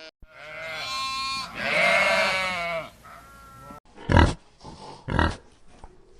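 A sheep or goat-type farm animal bleating: two long wavering calls, the second louder, then two short, loud, breathy blasts about a second apart.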